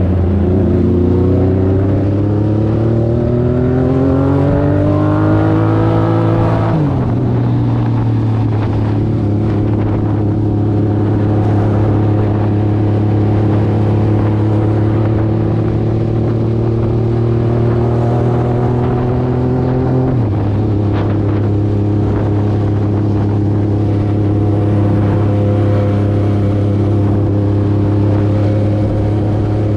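Motorcycle engine accelerating: its pitch climbs for about seven seconds and drops sharply at a gear change. It then climbs slowly and drops at a second gear change about twenty seconds in, and runs steadily after that.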